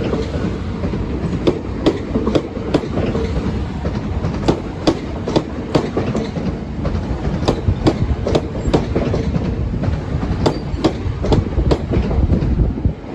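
Train passing close by, its wheels clicking irregularly over the rail joints above a steady low rumble.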